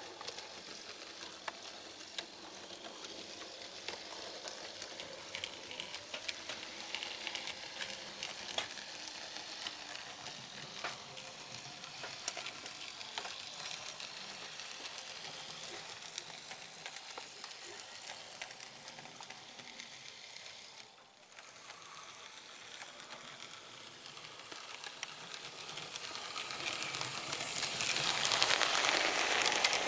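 OO gauge model train running over hand-built track: a steady hissing run of motor and wheels, with many small clicks as the wheels cross rail joints and points. It dips briefly about two-thirds of the way through, then grows much louder near the end as the train comes close.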